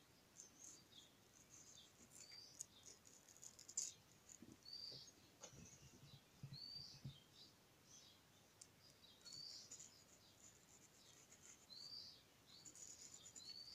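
Near silence with faint background bird chirps: several short, high, hooked chirps scattered every second or two. A few soft clicks come from a carving knife working into the watermelon flesh.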